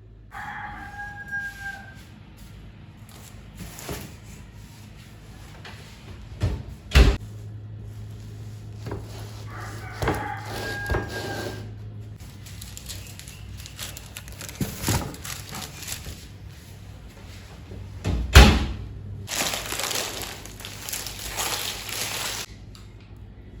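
A rooster crowing twice, once at the start and again about ten seconds in. Between and after the crows come two sharp knocks, the second the loudest sound, and a few seconds of hiss near the end.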